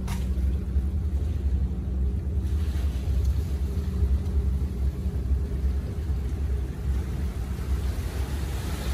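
A boat engine running steadily: a low rumble with a constant hum.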